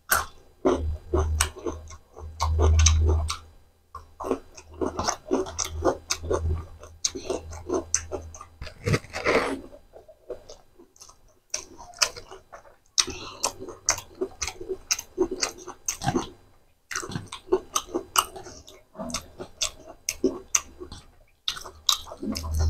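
A man chewing and smacking a mouthful of spiced macaroni and raw green bell pepper close to the microphone, in quick runs of wet, clicky mouth sounds broken by short pauses. Dull low thuds come in the first few seconds.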